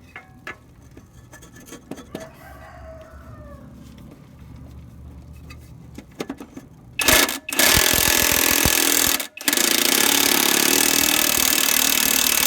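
A rooster crows faintly about two seconds in. From about seven seconds in, a loud, steady hiss comes in three bursts, the last lasting over three seconds.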